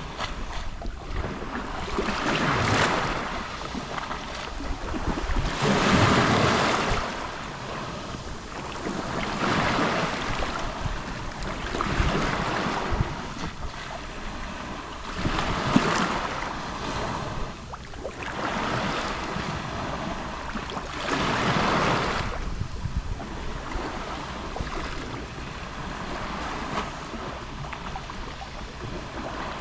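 Gentle Mediterranean waves lapping on the shore, a soft wash that swells and breaks about every four seconds, with a little wind on the microphone.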